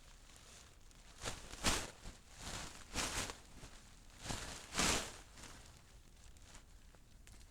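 Footsteps in snow: about six steps between one and five seconds in, then quieter.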